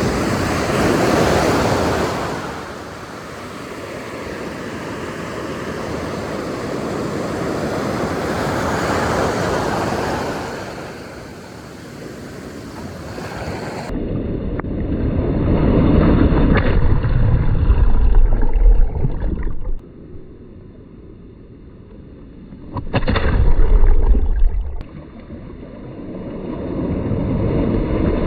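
Ocean surf washing in and out, rising and falling in slow swells. In the second half there are two stretches of heavy low rumble, each a few seconds long.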